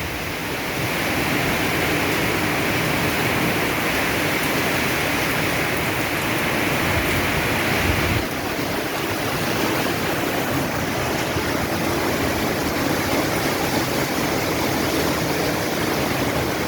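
Heavy rain pouring down in a steady hiss during a storm. About eight seconds in, the higher part of the hiss eases a little, just after a short low swell.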